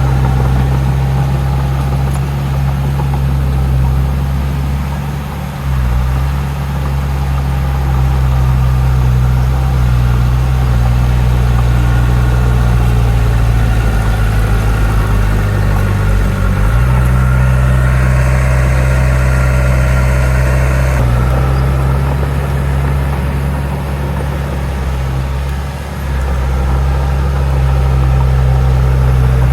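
Heavy diesel earthmoving machinery running steadily with a low engine note. The pitch shifts about halfway through, and a higher, brighter band of sound joins it for about three seconds around two-thirds of the way in.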